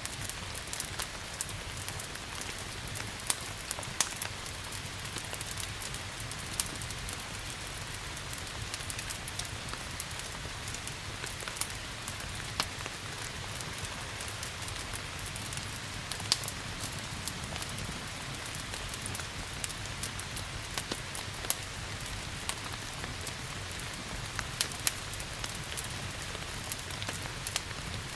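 Steady rain falling, mixed with the frequent sharp crackles and pops of a wood fire burning in a fireplace.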